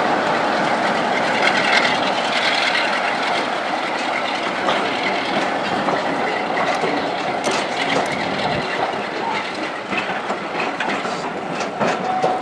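Diesel-hauled passenger coaches rolling slowly past with a steady rumble. From about halfway through, the wheels click and knock over the rail joints more and more often.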